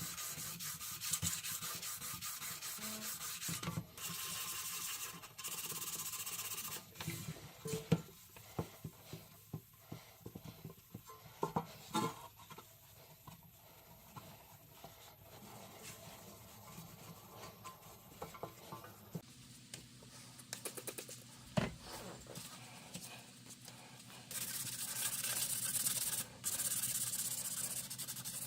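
Hand sanding: bouts of rapid abrasive rubbing at the start and again near the end, with scattered light clicks and taps between them.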